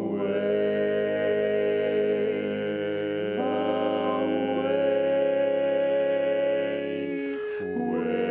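Male barbershop quartet singing a cappella in close four-part harmony, holding long sustained chords. The chord shifts about three seconds in, and after a short break near the end a new chord begins.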